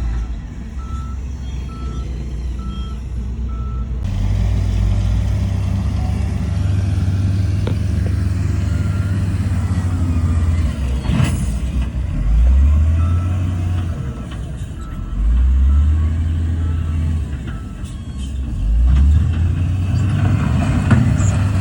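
Heavy diesel earthmoving machinery running, the engine rising in pitch and loudness under load about three times. A reversing alarm beeps about once a second during the first few seconds.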